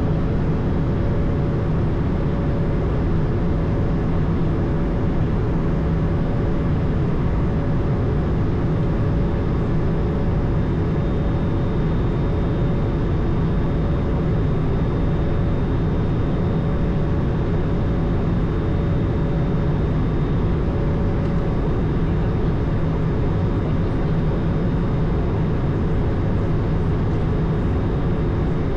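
Steady cabin noise on the flight deck of an Airbus A220: a dense, even rumble of its Pratt & Whitney PW1500G geared turbofans and rushing air, with faint steady whining tones over it and no change through the stretch.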